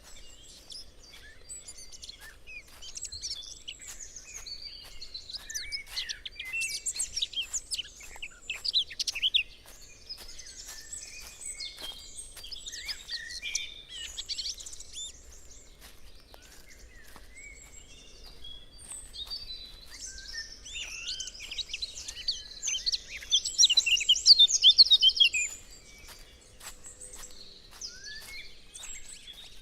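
Woodland songbirds singing, a chorus of overlapping chirps and trills, with a louder, busier stretch of song a little past the middle.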